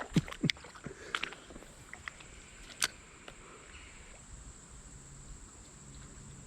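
A scatter of small clicks and knocks in the first few seconds, with one sharper click about three seconds in, over a steady high-pitched insect drone.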